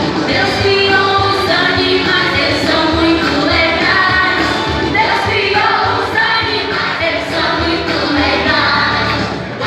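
A children's song: several voices singing together over an instrumental backing, with a steady beat.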